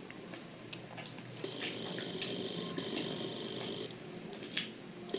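Close-miked chewing and wet mouth sounds of someone eating fried chicken wings, with scattered lip smacks and soft clicks as meat is pulled from the bone.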